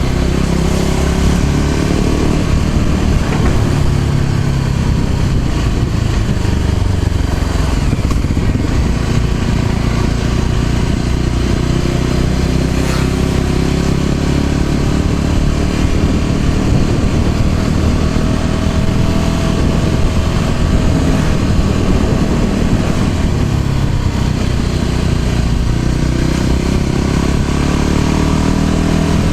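Motor scooter engine running while riding, its pitch rising and falling with the throttle and speed.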